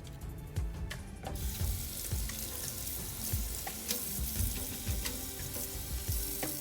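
Food sizzling in hot oil in a pan, a dense hiss that starts about a second in and cuts off just before the end.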